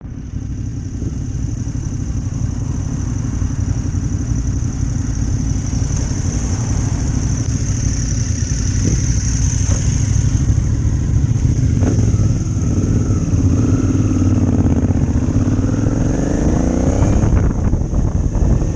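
Motorcycle engine running steadily on the move, with a steady high whine above it. Toward the end the engine note climbs as the revs rise, then changes abruptly shortly before the end.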